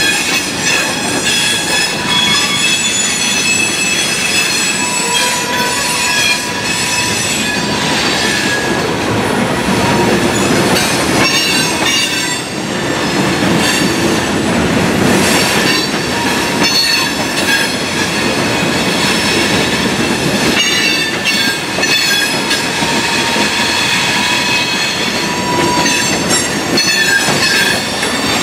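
Coal hopper cars of a freight train rolling past close by: a steady rumble of steel wheels on the rails, with high-pitched wheel squeal that comes and goes throughout, the flanges grinding against the rail.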